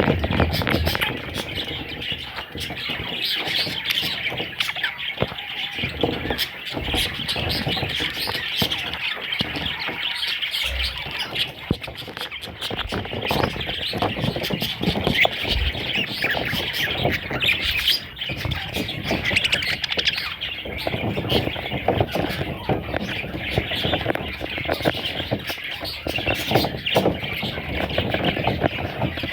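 Parrot chicks chirping and squawking in a continuous dense chatter, with rustling and a few low thumps underneath.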